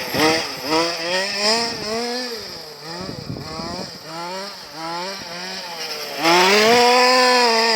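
Zenoah G270 25cc two-stroke engine of a 1/5-scale MCD RRV4 RC car, with a Samba side-exit tuned pipe, revving up and down in a string of short throttle bursts. About six seconds in it rises to its loudest and holds high revs for over a second before dropping away.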